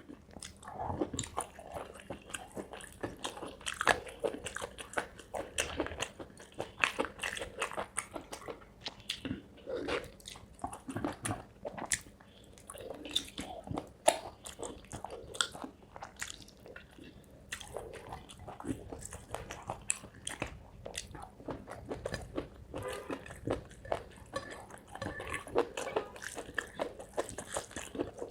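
Close-up sounds of a person biting and chewing spicy chicken curry with rice: wet mouth sounds broken by irregular crunchy snaps, two of them sharper and louder, about four seconds in and near the middle.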